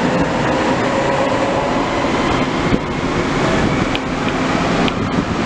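A DB Class 423 S-Bahn electric multiple unit pulls out of an underground station. It makes a steady rumble of running gear under a layered electric whine from its traction equipment. A few sharp clicks come through near the middle and again near the end.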